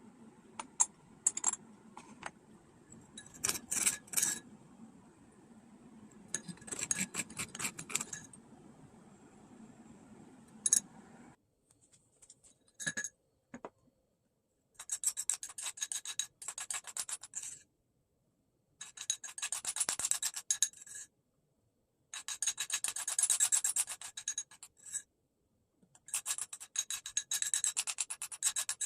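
Rasping, rubbing strokes in repeated bursts of one to three seconds, each burst made of many quick strokes, with short pauses between them.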